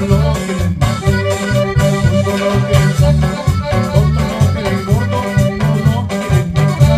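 A band playing a cumbia instrumental passage: an accordion carries the melody over a steady bass line and regular percussion hits.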